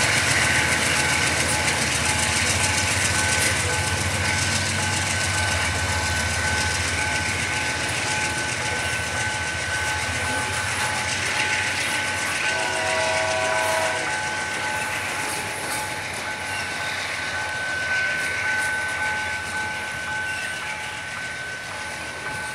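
Freight train's covered hopper wagons rolling past on the rails: a continuous rumble and rattle of wheels, with a steady high whine over it. A short horn sounds about halfway through.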